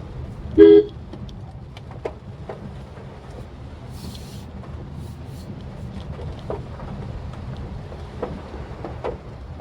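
Steady low engine and road rumble heard inside a Maruti Suzuki Swift Dzire on the move, with scattered light ticks of rain on the car. About half a second in, a short pitched beep like a car horn, the loudest sound; a brief hiss about four seconds in.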